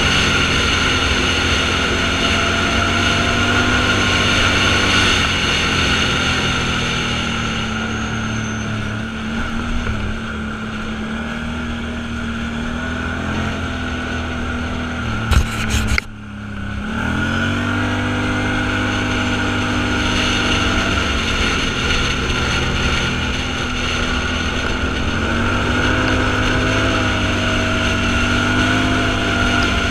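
Vehicle engine running steadily while driving, with a steady hum. A little past halfway there are a couple of clicks and the engine note drops briefly, then rises again as it picks back up.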